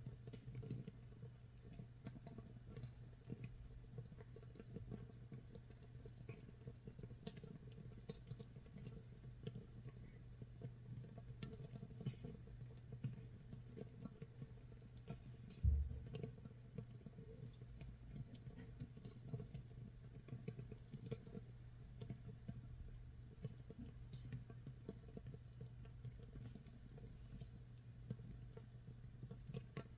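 Makgeolli starter mash fermenting in a jar 24 hours in: countless tiny bubbles popping at the surface make a dense, irregular crackling patter, like rain or toasting nurungji. One brief low thump stands out about halfway through.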